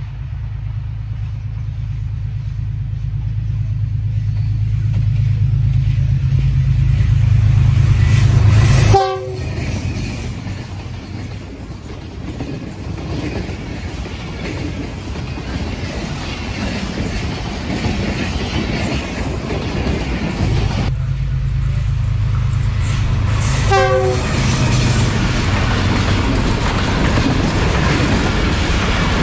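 GE U20C diesel-electric locomotive approaching, its engine drone growing steadily louder. It then gives way suddenly to the rumble and clatter of a passenger train's coaches rolling past close by. Two brief tonal sounds come, one about nine seconds in and one about three-quarters of the way through.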